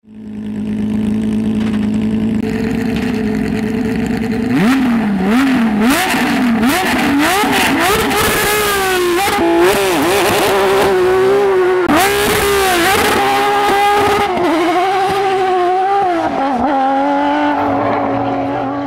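Porsche 911 flat-six engine idling steadily, then revved in quick rising and falling blips from about four and a half seconds in, then held at high revs with the pitch wavering until it cuts off suddenly at the end.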